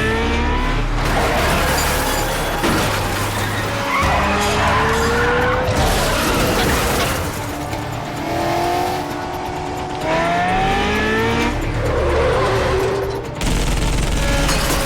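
Movie car chase sound mix: car engines revving again and again in rising whines and tyres screeching, over a music score with a steady low bass.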